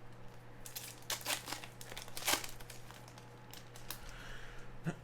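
The wrapper of a sports card pack being torn open and crinkled by hand, in several short bursts, the loudest about two seconds in.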